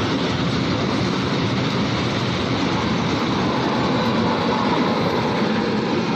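Long goods train of coal wagons rolling past, a steady, even noise of wheels and wagons.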